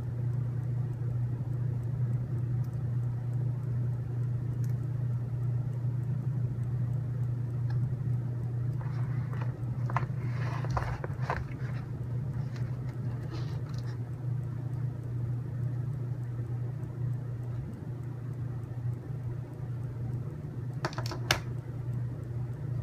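Steady low background hum with a few light clicks and rattles of tiny plastic rivets being handled and pressed into the robot's parts, a cluster about ten seconds in and a short pair near the end.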